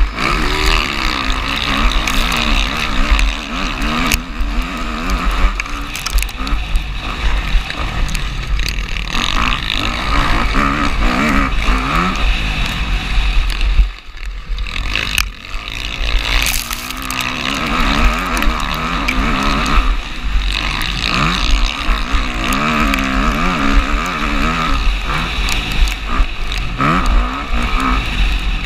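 Motocross bike engine under race throttle, its pitch climbing and falling again and again as it revs and shifts, over heavy low wind rumble on the camera microphone. About halfway through the engine note drops away for a moment, then picks up again.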